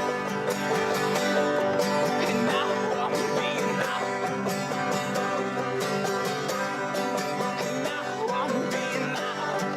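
Acoustic string-band music in a bluegrass or country style: guitar and banjo picked in a steady run of notes.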